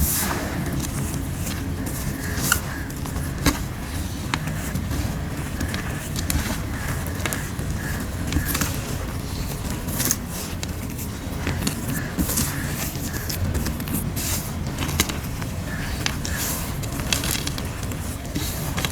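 Fingers pressing and rubbing crushed grey gym chalk powder: scattered soft crackles and scrapes at irregular moments, over a steady low rumble.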